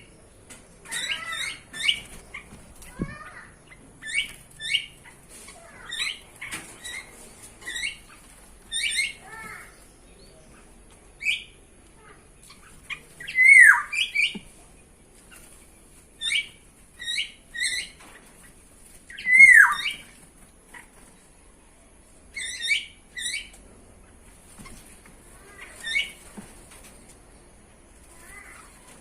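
Birds calling: a run of short, sharp chirps and squawks in quick clusters, with a louder call that slides down in pitch twice, about halfway through and a little after.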